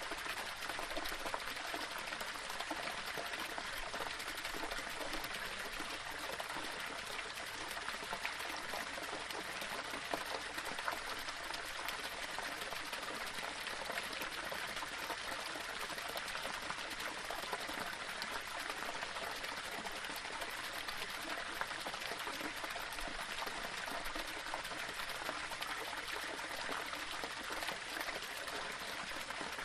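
Small waterfall splashing and trickling over rocks, a steady, unbroken rush of running water with fine splashy detail.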